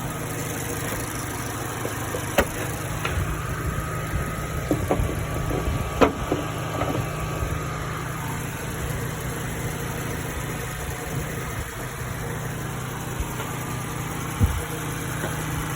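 2022 Mazda CX-3's 2.0-litre four-cylinder engine idling steadily under the open hood. A few sharp clicks or knocks sound over it, about two, six and fourteen seconds in.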